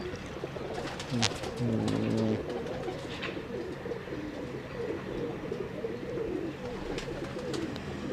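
Domestic pigeons cooing, several overlapping, with a few sharp clicks.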